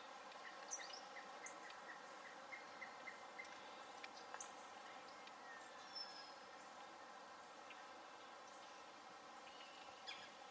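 Faint songbird chirping over a steady outdoor hiss. A run of short repeated chirps, about three a second, stops a few seconds in, followed by a few scattered higher calls and one falling whistle.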